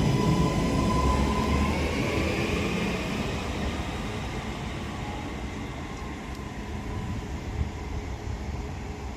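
Northern Class 331 electric multiple unit pulling away from the platform. Its traction motor whine rises slightly in pitch over a rumble of wheels, then the sound fades as the train leaves.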